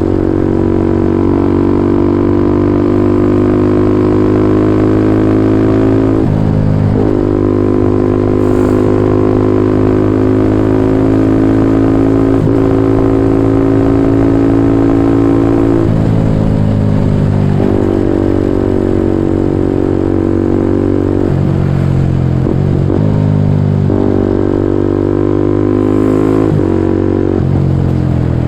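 Kawasaki Ninja 250SL's single-cylinder engine running through a KEA Speed NA 1 aftermarket exhaust. It holds a steady engine speed for stretches of several seconds and shifts pitch several times between them.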